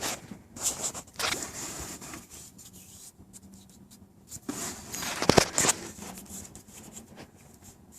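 Light scraping and scattered metal clicks of engine parts being handled by hand, with a busier run of scrapes and one sharp click about five seconds in.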